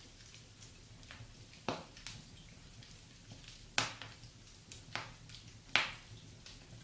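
Wood fire burning in a fireplace, with irregular sharp crackles and pops from the burning logs over a faint low rumble.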